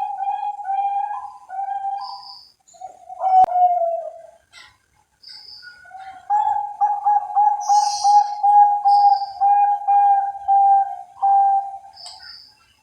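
Bangkok perkutut (zebra dove) cooing: a held coo and a falling coo, then after a pause a long run of quick, evenly spaced coo notes, about three a second.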